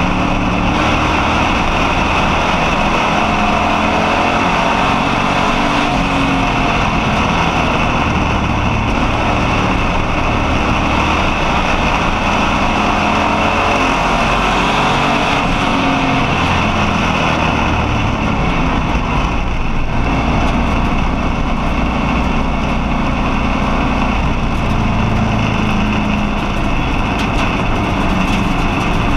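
Street stock race car engine running hard at racing speed, heard from inside the car. It is loud and continuous, its pitch dropping and climbing again every few seconds.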